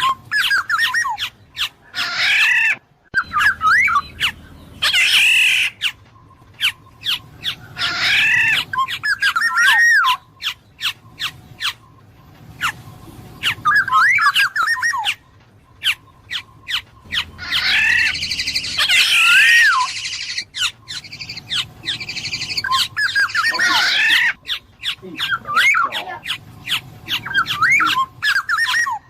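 Black-naped oriole calling: bursts of fluty, warbling whistled phrases every few seconds, with runs of sharp clicks between them.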